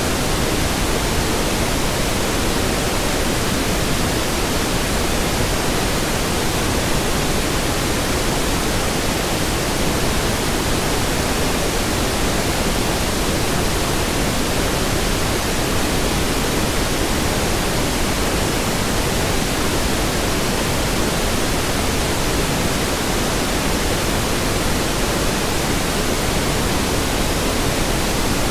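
Steady synthetic pink noise: an even, unchanging hiss spread across all pitches, fuller in the low end.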